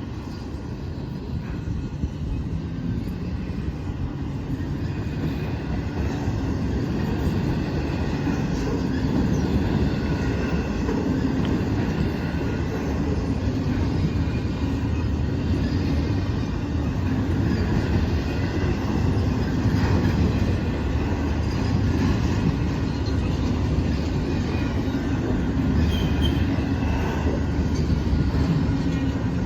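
A South Shore Line train passing at close range: a steady rumble of wheels on the rails that builds over the first few seconds and then holds.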